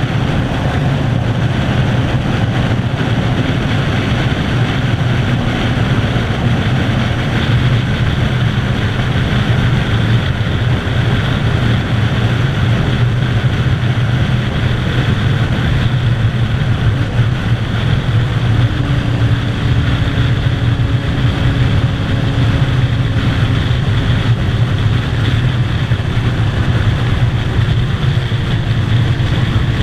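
2007 Kawasaki ZZR600's inline-four engine running steadily at highway cruising speed, mixed with a steady rush of wind noise.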